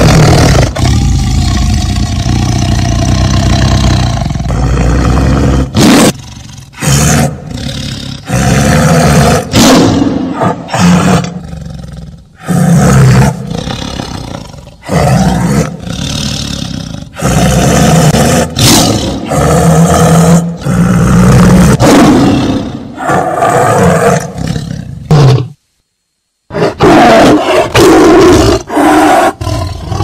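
Tiger roaring and growling: a long unbroken stretch over the first several seconds, then a string of short, loud roars one after another, broken by about a second of dead silence near the end.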